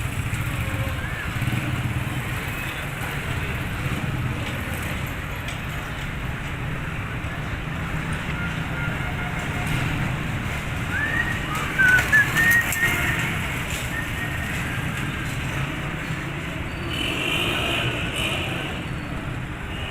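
Outdoor ambience: a steady low rumble with birds calling over it, and a cluster of loud, sharp chirps a little past the middle.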